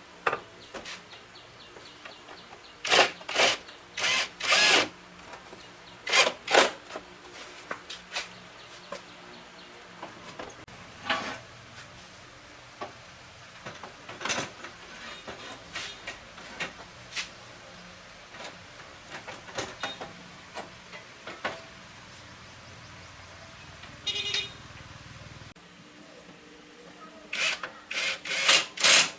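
Workshop hand-work noises: clusters of short sharp knocks and bursts of noise, with scattered fainter clicks between.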